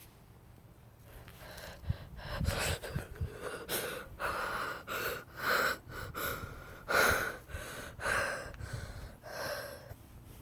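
A person breathing heavily and gasping close to the microphone. It starts about a second and a half in and goes in quick breaths, one to two a second.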